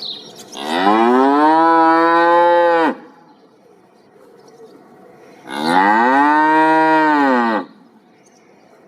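A cow mooing twice: two long calls of about two seconds each, separated by a few seconds. Each call rises in pitch at the start and drops at the end.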